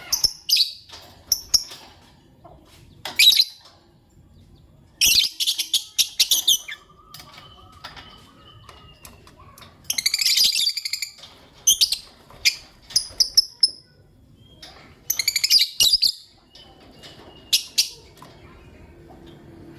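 Lovebirds chirping in shrill, rapid bursts, with the densest flurries of chirps coming a few seconds apart.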